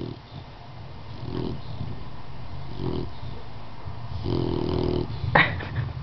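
Dog snoring in deep sleep, a rasping snore about every one and a half seconds, four in all, the last one longer. A brief sharp sound about five and a half seconds in is the loudest moment.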